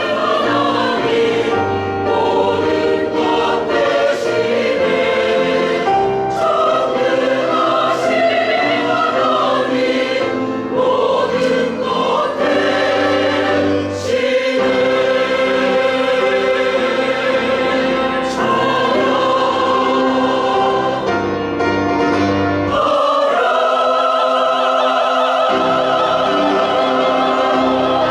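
Church choir singing a sacred anthem in parts. In the last few seconds it settles into a long held chord.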